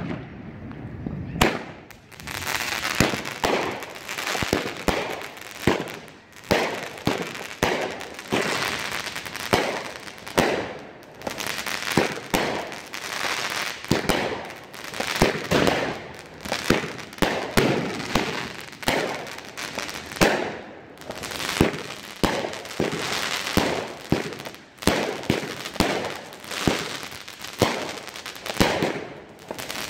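Fireworks going off in a near-continuous barrage: many sharp bangs one after another with crackling between them, starting about a second and a half in.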